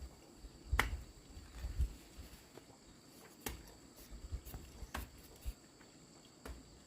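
Steady high-pitched insect chirring, with a few sharp clicks or knocks and some low thuds scattered through it.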